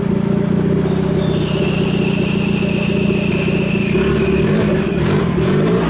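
Turbocharged Nissan SR20 four-cylinder engine running steadily. A high whine joins about a second and a half in, and from about four seconds the engine note changes and rises as it is revved.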